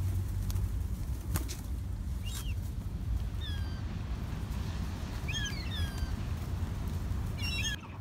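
Birds calling: short, falling chirps in small clusters about three and a half, five and a half and seven and a half seconds in, over a steady low rumble. The rumble cuts off sharply near the end.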